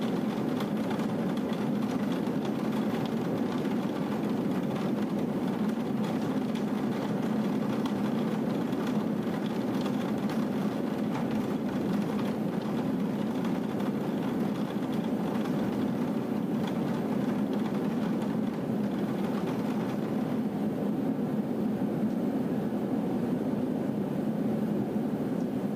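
Steady rushing noise of a thunderstorm downpour, even throughout with no distinct thunderclaps.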